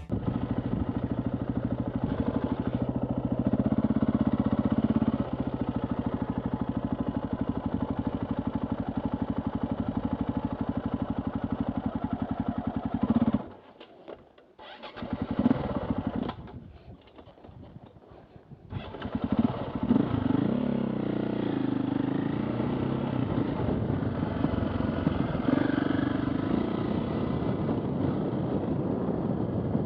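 Trail motorbike engine running at low revs with a steady rapid beat. A little under halfway through it goes quiet for about five seconds, then runs again with revs rising and falling.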